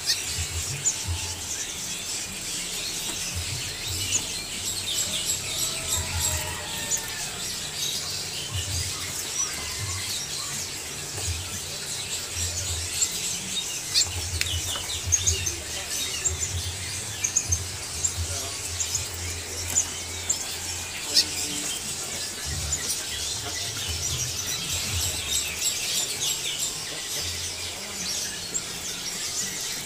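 Many small caged songbirds chirping and twittering together, with short high calls overlapping all the way through. Irregular low bumps sit underneath.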